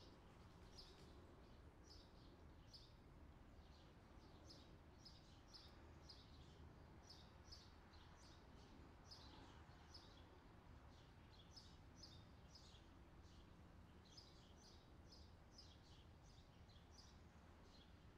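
Faint chirping of small birds: short high chirps in quick clusters, repeating throughout, over a faint, steady low background rumble.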